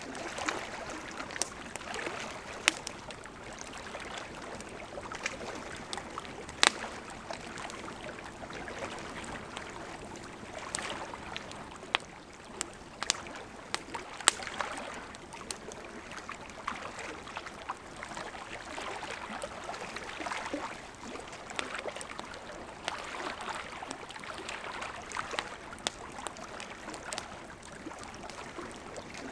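Wood campfire crackling: a steady hiss of burning with irregular sharp pops and snaps, a few of them much louder than the rest.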